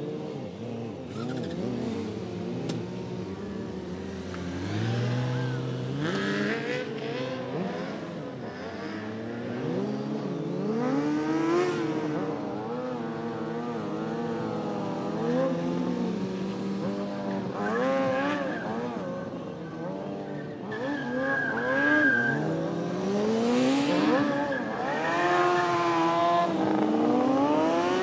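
Motorcycle engines revving up and down again and again, several at once, with a brief high steady squeal now and then.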